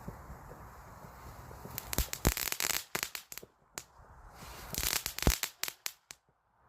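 Small red firecracker going off: a burst of sharp bangs and crackle about two seconds in, a few scattered pops, then a second burst of bangs near five seconds before it dies out.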